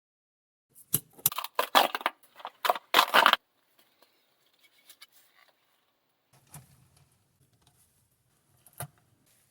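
Toy packaging and a die-cast toy car being handled: a burst of rapid plastic rattling and crackling for about two seconds starting a second in, then faint handling noise and a single sharp click near the end.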